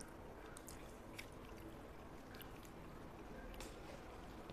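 Faint close-up chewing of a mouthful of spaghetti, with a few soft wet clicks and smacks of the mouth.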